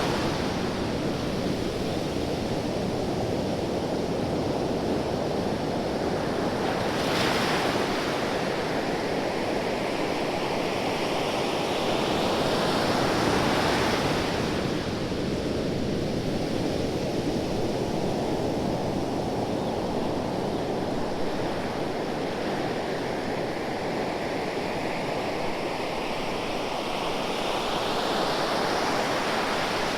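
Ocean waves breaking and washing on a shore, a continuous surf wash that swells as a wave breaks about a quarter of the way in, again near the middle, and once more near the end.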